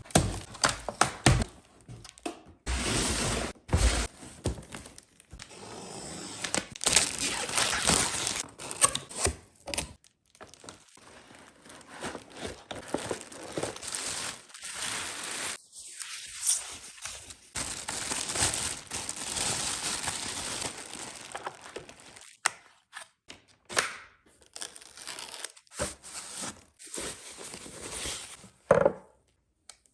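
Packaging being handled and unwrapped: irregular crinkling and tearing, with occasional thunks and knocks.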